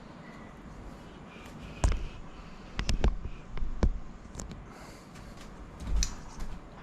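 Sharp clicks and knocks, spaced irregularly, as parts of a Lenovo ThinkPad E550 laptop are pried off and handled during disassembly. The loudest come about two and three seconds in.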